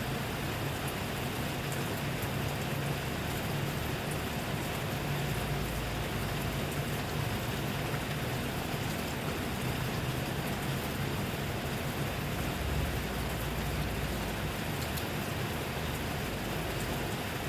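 Steady rain falling, an even hiss with scattered faint drop ticks, over a low rumble.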